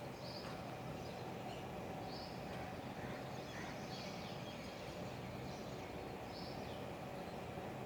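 Steady outdoor background noise with a short, high bird chirp that repeats every second or two.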